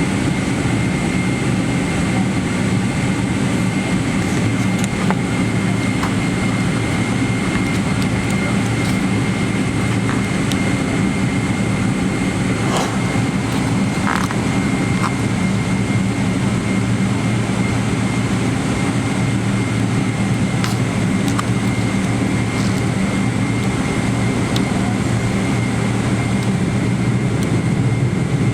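Steady drone of a Boeing 777-300ER's GE90-115B turbofans running at a constant power, with a thin steady whine above it and a few faint clicks; the level stays level, with no spool-up.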